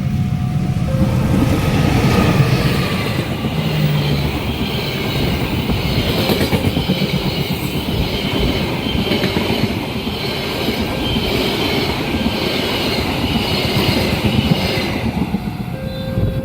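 Train passing over a curved level crossing: wheels rumbling and clattering on the rails, with a high wheel squeal on the curve from about three seconds in until near the end.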